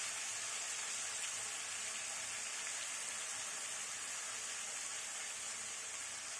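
Marinated chicken pieces sizzling steadily in hot oil in a pan, a constant high hiss of frying.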